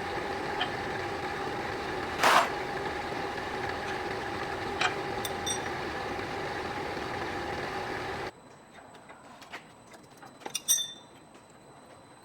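A machine running steadily with a constant hum, and a short sharp hiss about two seconds in. It cuts off abruptly about eight seconds in, leaving a quiet stretch with light clicks and a brief cluster of knocks.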